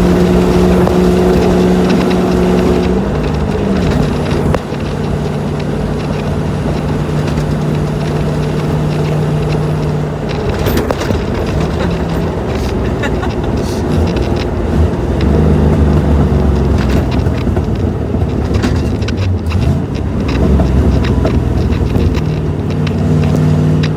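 1984 Land Rover's Rover 3.5-litre V8 engine running steadily, its pitch stepping down about three seconds in and shifting again several times as the revs change.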